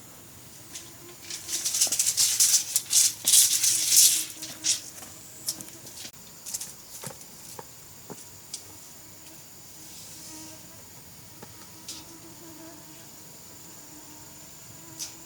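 A burst of dry rattling and clicking for about three seconds, starting a second or so in, then scattered single clicks and knocks, over a steady high-pitched whine.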